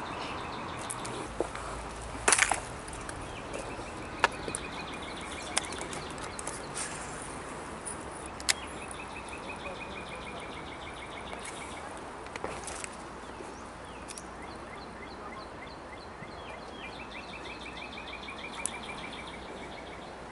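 Birds singing repeated trills, each a quick run of even notes stepping slowly down in pitch, coming back several times. A few sharp clicks sound in between, the loudest about two seconds in.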